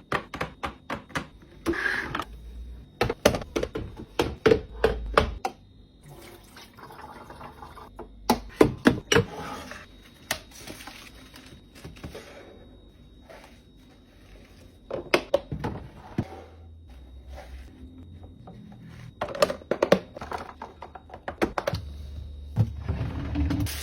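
Food containers and packages being set down and arranged in a refrigerator: a string of taps, clicks and thunks, rapid at first, then in clusters with quieter pauses between.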